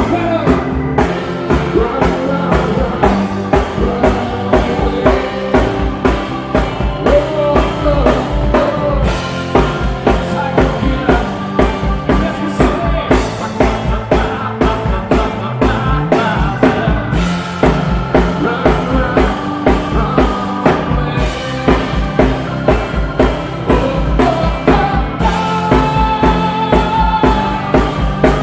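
Live rock band playing a song: a drum kit keeps a steady driving beat under amplified instruments and a singing voice.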